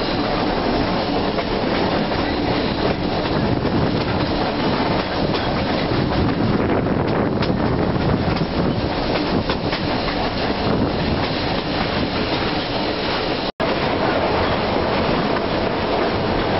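Steady rumble and clatter of an excursion train's passenger car rolling along the rails. The sound cuts out for an instant about three-quarters of the way through.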